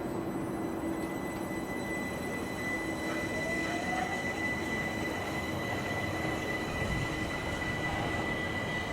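Electric multiple-unit train running at the station platform, a steady rumble with a constant high whine.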